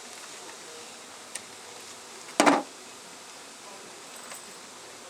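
Honey bee colony buzzing steadily while its combs are being moved, with one short loud bump about two and a half seconds in.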